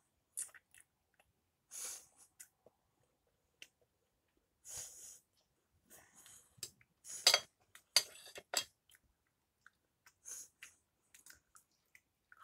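A person chewing and biting into a feta and roasted red pepper pastry tartlet: scattered short mouth noises and breaths, with a cluster of louder bursts a little past halfway.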